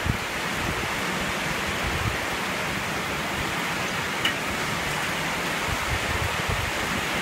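Strong hurricane wind blowing steadily, with irregular low buffeting on the microphone.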